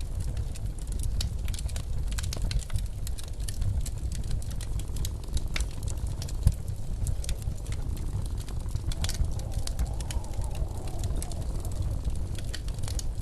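Wood fire crackling in a fireplace, many small irregular pops and snaps, over a steady low rumble of blizzard wind.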